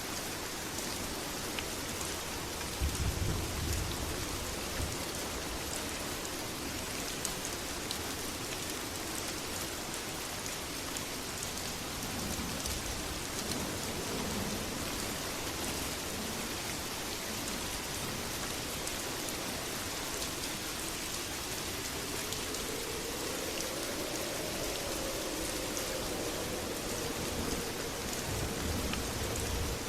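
Steady heavy rain with thunder: a low rumble about three seconds in and another near the end.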